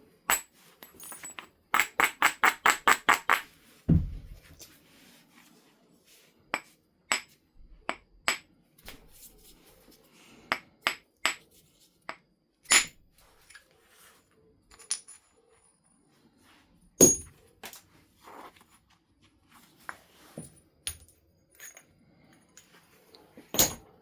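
Flintknapping: a percussor striking a large flint nodule being thinned into a biface, making sharp glassy clicks. Heavier blows with a dull thud come at about 4, 13 and 17 seconds and near the end. Between them are lighter taps and clicks, and near the start a quick run of about ten light strokes on the edge.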